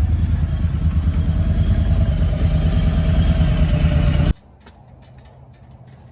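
Motor vehicle driving: a loud, steady low rumble of engine and road noise with a faint tone slowly rising in pitch, cut off abruptly about four seconds in, leaving only a quiet low hum.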